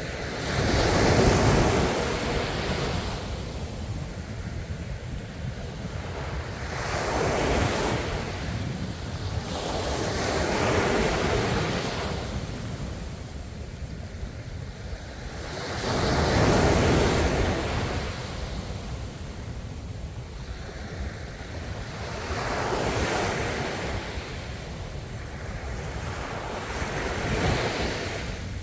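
Ocean waves breaking and washing in, about six surges that swell and fade every four to six seconds over a steady low rumble.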